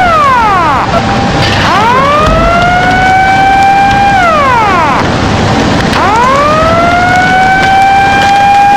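Outdoor public warning siren wailing for a tsunami alert: its pitch rises slowly, holds, then falls, in about two full cycles, over a steady noisy background.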